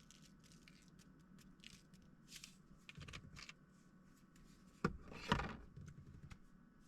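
Faint scraping and rustling of things being handled, with a sharp knock about five seconds in followed by a louder scrape.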